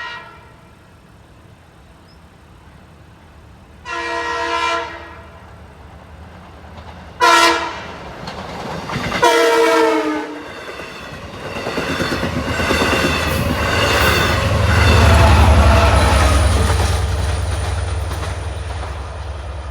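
Long Island Rail Road diesel train sounding its horn in the grade-crossing pattern as it approaches: the end of one blast, then a long, a short and a long. The train then passes with a rumble and wheel clatter on the rails that swells and fades away.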